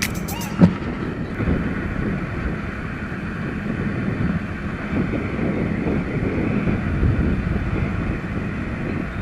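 Wind buffeting the microphone over the road and engine noise of a Hero Passion Pro motorcycle on the move, with one sharp knock just under a second in.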